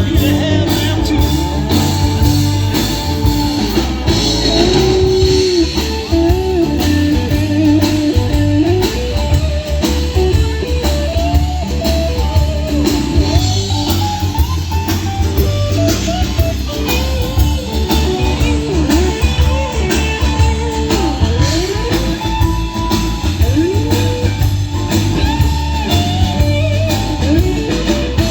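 Live blues-rock band playing: an electric guitar soloing with many bent notes over a steady bass and drum kit.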